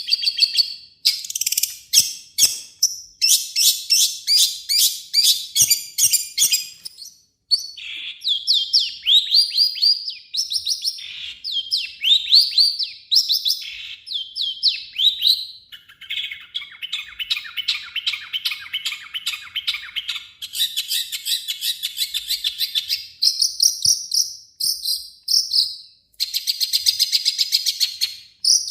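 Long-tailed shrike (cendet) singing a loud, rapid, varied song. It runs through fast strings of short repeated notes and quick rising sweeps, with a harsher buzzy passage in the middle.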